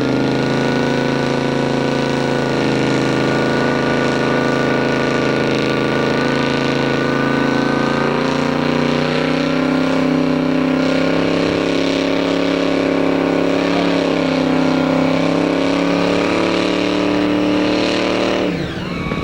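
Supercharged 468 cubic-inch Chevrolet big-block V8 with an 8-71 blower, held at high revs through a burnout on wetted rear tyres. It runs loud and steady, then drops off suddenly near the end.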